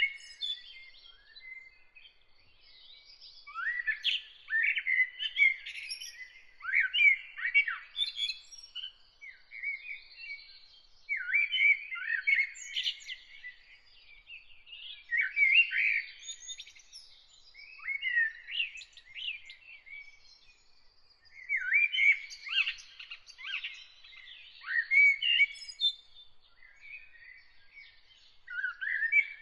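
A songbird singing a series of short phrases of quick chirps and sweeping notes, a phrase every few seconds. A faint steady high note carries on behind the song.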